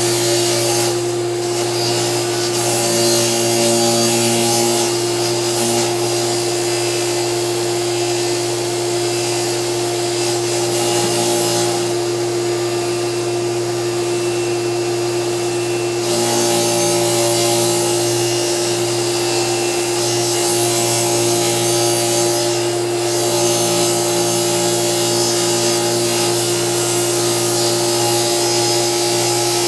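Delta table saw running and ripping plywood, with a vacuum running alongside for dust collection: a steady hum under a harsh hiss that eases for a few seconds in the middle.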